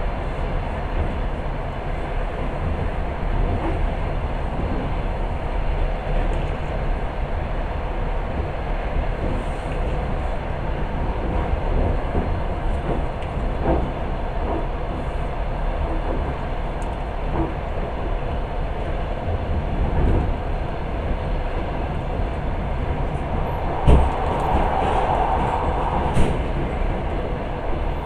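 Passenger train running along the track, heard from inside the carriage: a steady rumble of wheels and car body, with a couple of sharp knocks near the end.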